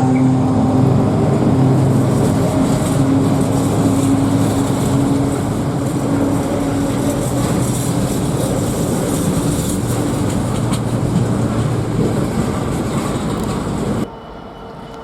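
A train running close by: a loud, steady rumble with a low steady hum, easing a little partway through, then cutting off abruptly near the end.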